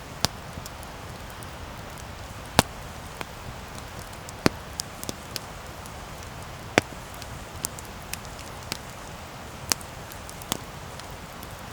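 Wood campfire burning: a steady hiss with a low rumble, broken by about a dozen sharp, irregular crackles and pops from the burning wood.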